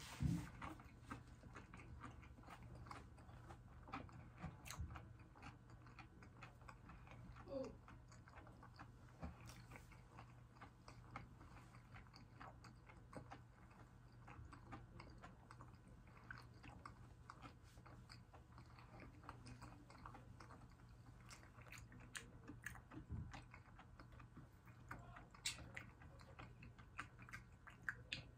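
Quiet close-up chewing of crispy fried fish and butterfly shrimp: many small crunches and wet mouth clicks, with a few louder crunches scattered through.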